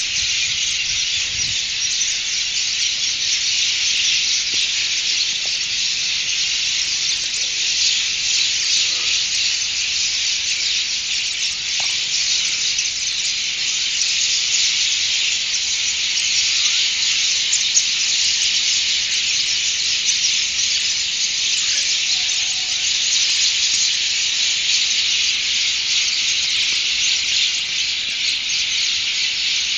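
A large flock of birds chirping and chattering all at once in a dense, steady chorus.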